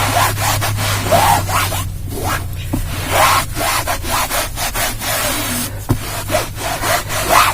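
A damp towel scrubbing back and forth over a cloth car seat, in repeated rubbing strokes about twice a second.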